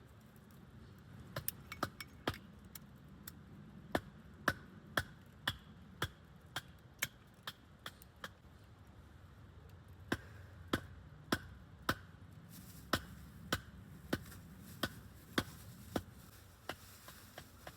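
Steady chopping on wood: sharp knocks about two a second, in two runs with a pause of a couple of seconds between, then lighter, quicker taps near the end.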